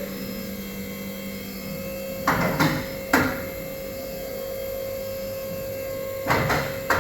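Heavy truck lift in operation: a steady electric hum from its power unit, with two bunches of about three sharp metallic clacks, about two seconds in and again near the end.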